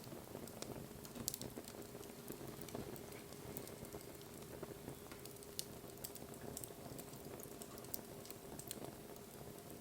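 Wood fire burning, crackling with irregular sharp snaps and pops over a low steady hiss, the loudest pop about a second in.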